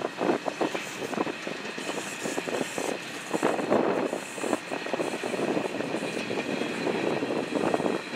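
Freight train wagons rolling past, with a continuous run of irregular clattering knocks from the wheels and a faint steady high whine.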